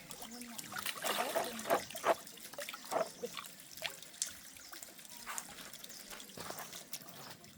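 Water trickling, with a few short animal calls in the first half.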